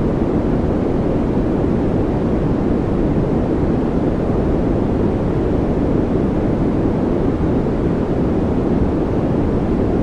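Steady, unchanging noise track sold as 'white noise', weighted toward the low end: a deep, even rushing sound with little treble and no events in it.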